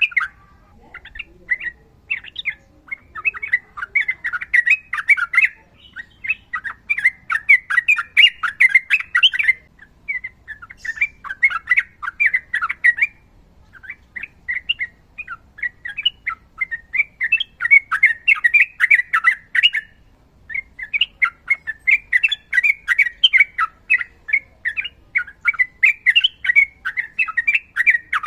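Yellow-vented bulbul singing: long runs of fast, chattering whistled notes with short pauses between the runs.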